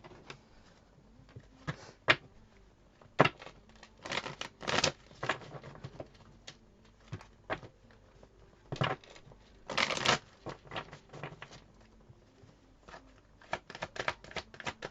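Tarot cards being shuffled and handled: irregular sharp snaps and short riffles of the deck, some louder than others.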